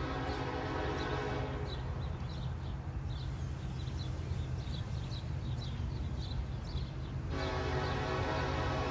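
Diesel locomotive's air horn sounding a long chord, breaking off about a second and a half in and starting again near the end, over the low rumble of the passing train.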